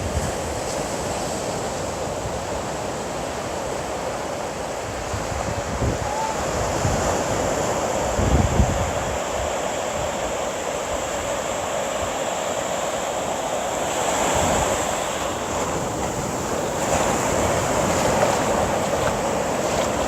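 Sea surf washing steadily onto the shore, with wind gusting against the microphone as a low rumble a few times, the strongest about eight and a half seconds in.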